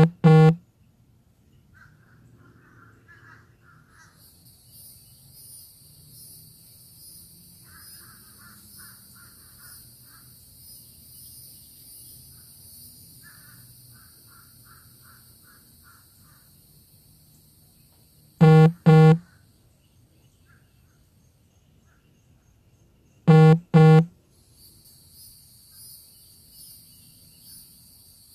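A crow cawing in three pairs of short calls: one pair at the start, one about 18 seconds in and one about 23 seconds in. A steady high insect buzz runs underneath from about 4 seconds on, with faint, rapidly repeated chirps from a small bird.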